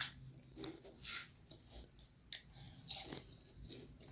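Chewing and crunching a mouthful of puffed cheese-ball snacks, with irregular short crackles, over a faint steady high-pitched drone.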